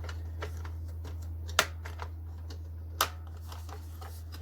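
Two sharp clicks about a second and a half apart, with a few fainter ticks: the clasps on a fireplace ash vacuum's canister being snapped. A steady low hum runs underneath.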